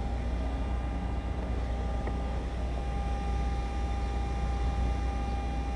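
Steady low hum with a thin steady tone above it, unchanging throughout.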